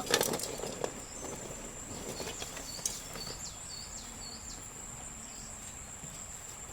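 Outdoor rural ambience: a steady high-pitched insect drone, with short bird chirps repeating every second or so. A few faint clicks come in the first second.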